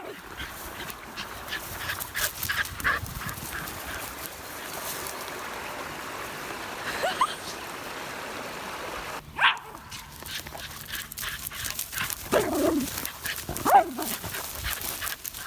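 Dogs at rough play giving short yips and whines, scattered through the clip, with a cluster of yelps about two-thirds of the way in.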